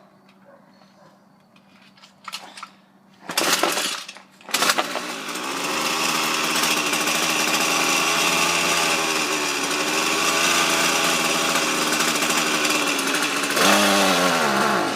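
Ryobi gas string trimmer pull-started twice, then its engine catches and runs unevenly for about nine seconds. Near the end it surges briefly, then its pitch slides down as it dies: a cold engine that stalls as soon as it is given throttle.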